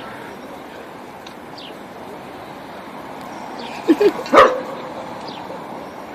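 A few short barking calls about four seconds in, two quick ones and then a louder one, over a steady background hiss.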